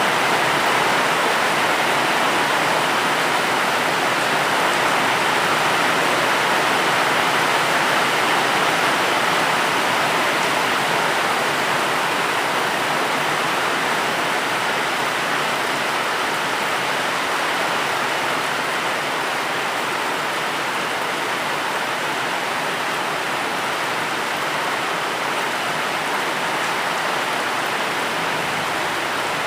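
Steady rain: an even, dense hiss with no separate drops or other events standing out.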